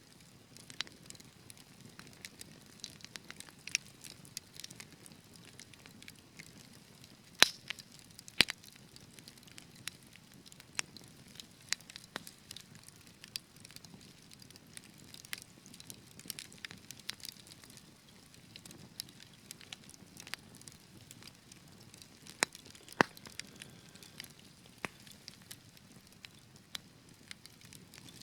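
Fireplace fire crackling: irregular sharp pops and snaps over a soft low hiss, the two loudest pops about seven and eight seconds in.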